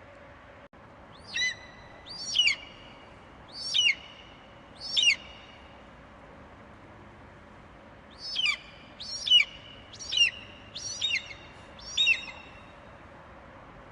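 An eagle's high, thin cries: four short calls that fall in pitch, then a pause of about three seconds and a quicker run of six more.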